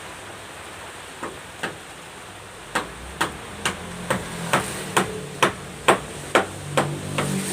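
Hammer blows in carpentry work: two separate strikes a little after a second in, then a steady run of strikes at about two a second.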